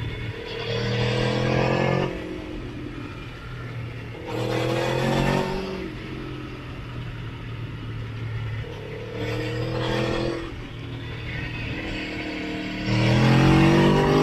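Motorcycle engine on the road, opened up four times. Each time the note climbs and gets louder, then settles back to a steady lower drone in between, with the last and loudest climb near the end.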